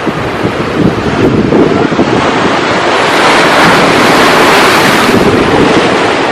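Sea surf: a wave rushing in, swelling to its loudest about halfway through and easing off near the end, with wind buffeting the microphone.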